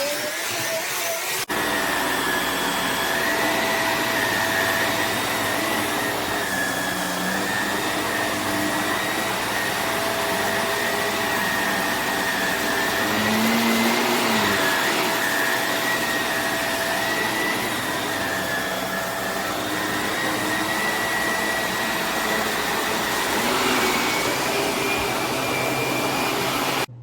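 Shark Navigator Lift-Away Deluxe NV360 upright vacuum running: a steady rush of air with a high motor whine that wavers slightly in pitch. The sound cuts off suddenly near the end.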